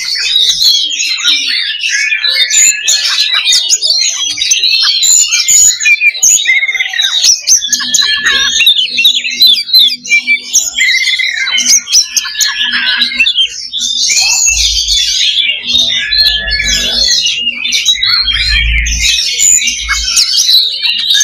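Oriental magpie-robins (kacer) singing loudly and without a break, their whistles and chattering phrases overlapping densely as in a song contest. A low rumble sits under the song through the second half.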